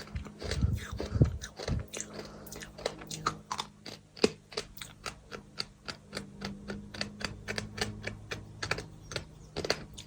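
Close-up gritty crunching of bird sand chunks being chewed: a dense run of sharp crackles, several a second, with a few dull low thumps in the first couple of seconds.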